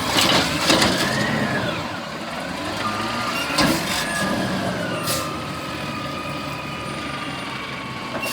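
Garbage truck running with a low engine rumble, a few sharp metal clanks and knocks, and a steady high whine that sets in about halfway through.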